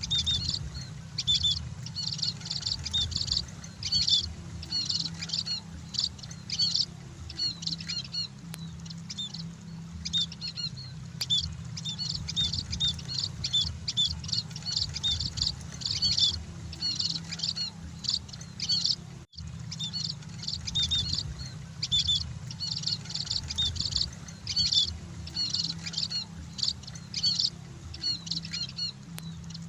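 Munias (emprit) chirping: quick runs of short, high chirps that barely pause, over a steady low hum, with a brief break about 19 seconds in.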